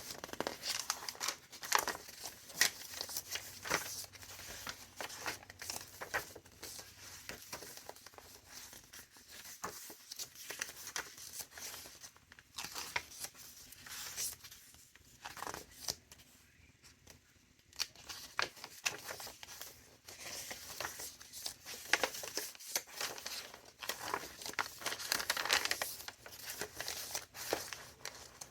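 Paper rustling and crinkling as the thick pages of a handmade junk journal are turned and paper ephemera is pulled from its pockets and handled. The irregular rustles and soft crackles go quiet briefly about halfway through.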